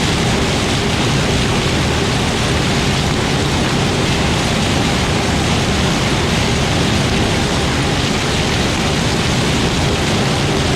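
Loud, steady rushing noise with no clear pitch or rhythm.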